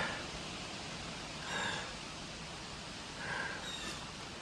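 A hiker's breathing: two soft breaths, about a second and a half and three seconds in, over a steady hiss of outdoor background.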